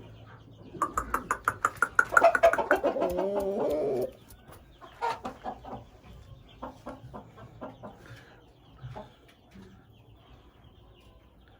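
Chicken calling: a loud, fast run of clucking calls lasting about three seconds, followed by quieter scattered clucks.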